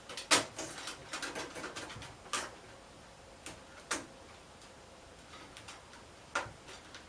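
Hard clicks and taps of computer parts being handled: a quick run of clicks at first, then a few single knocks spaced a second or more apart.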